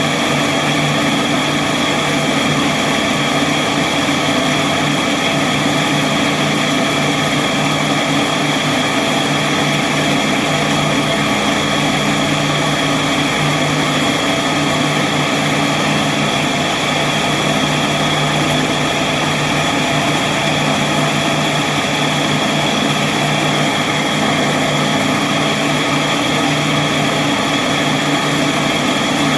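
Fastback I binding machine running steadily on its newly replaced belt gearbox: an even motor-and-gear hum with a high whine over it that never changes.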